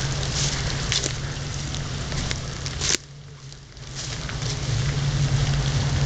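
Steady rumble and hiss of wind buffeting the camera microphone, with scattered crackles. The noise cuts out suddenly about three seconds in and builds back up within a second.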